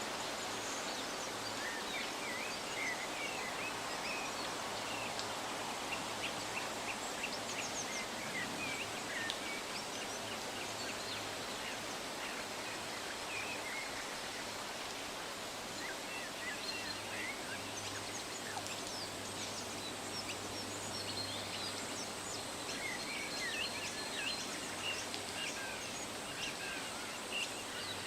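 Wind rustling through leafy trees, a steady hiss, with several small songbirds chirping and twittering over it, the calls busiest near the start and again near the end.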